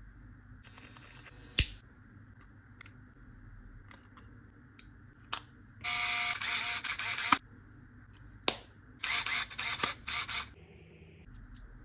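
Handling of a Wahl Legend hair clipper and its parts: a series of sharp clicks, with three bursts of rustling or scraping noise lasting about a second each.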